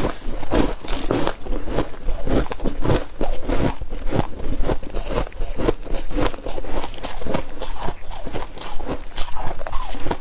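Close-miked chewing of flaky freezer frost: rapid, uneven crunches, several a second.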